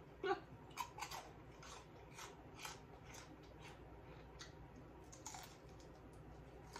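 Chewing and handling crispy fried chicken: faint, scattered crunches and crackles at an irregular pace.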